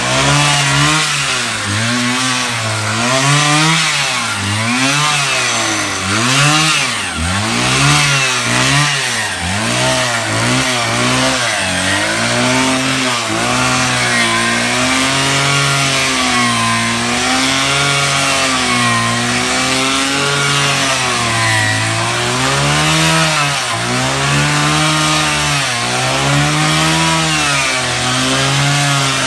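Electric drill motor running continuously, its pitch wavering up and down as the speed and load change.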